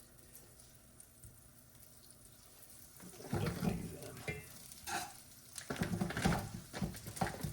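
Brussels sprouts frying in butter in a pan. The sizzling is faint at first, then from about three seconds in comes louder, irregular sizzling and scraping as they are stirred around.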